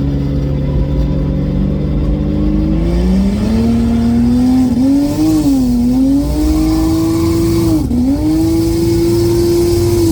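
Single-turbo BMW N54 inline-six under full-throttle acceleration from a steady cruise in a roll race. The engine note starts rising about three seconds in, dips briefly at upshifts around the middle and again near the end, then drops as the throttle comes off at the finish.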